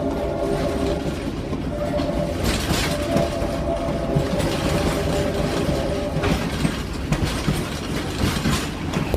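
Passenger train running along the track: a steady rumble and rail clatter, with a steady two-note tone sounding from about two to six seconds in.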